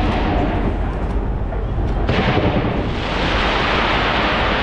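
New Year fireworks fired from a skyscraper: a dense, continuous rumble of bursts, with a sharp burst about two seconds in and a steady hiss building after it.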